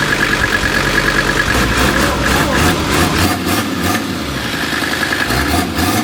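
Mercedes OM617 turbocharged five-cylinder diesel running just after being started, newly swapped into the car. It is running steadily, and its low rumble lightens about three seconds in.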